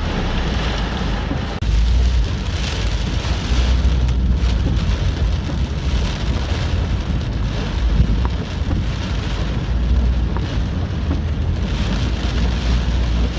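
Hurricane wind and heavy rain, with a deep rumble of wind gusts on the microphone that surges repeatedly.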